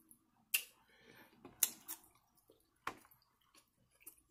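Eating sounds: quiet chewing broken by about four short, sharp wet smacks.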